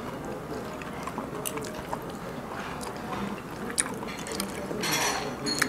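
A person chewing and eating shellfish meat, with wet mouth sounds and a few sharp clicks, likely from shell or cutlery.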